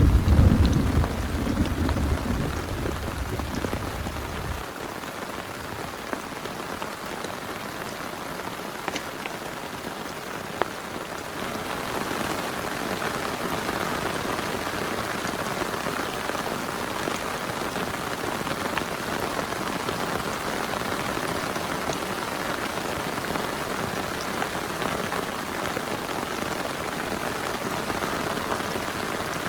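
Steady heavy rain with a few sharp drop ticks, and a low thunder rumble dying away in the first few seconds. About twelve seconds in, the rain becomes a little louder and brighter.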